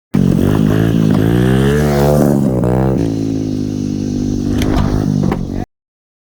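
Gas pit bike engine running and being revved, its pitch rising and falling a couple of times before it settles, with a few sharp clicks near the end; the sound cuts off suddenly.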